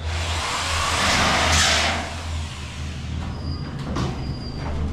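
A spark-throwing power tool working the steel ceiling framework: about two seconds of loud hissing crackle that swells and then dies away, over a steady low electrical hum, followed by a few light clicks.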